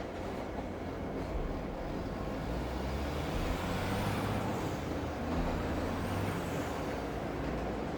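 City traffic ambience: a steady low rumble of a heavy vehicle passing, swelling through the middle, under a constant hiss, with a faint high whine that rises and falls twice.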